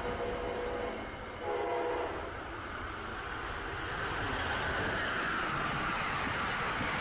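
Passenger train sounding its horn twice in the first two seconds. Then a rushing wheel-and-rail noise builds steadily as the train approaches at speed.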